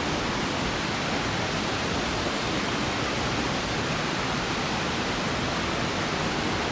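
Steady, loud rush of a waterfall, an even roar of falling water with no breaks.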